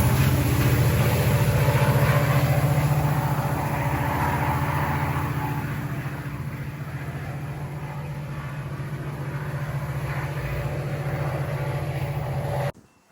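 Train moving through the station, a steady low diesel drone that slowly fades, then cuts off suddenly near the end.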